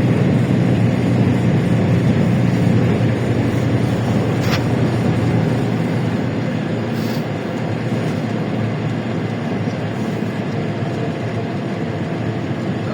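Cabin noise of a LiAZ-677M bus under way: its V8 petrol engine running with a steady low hum over road noise, easing slightly about halfway through, with a couple of faint clicks.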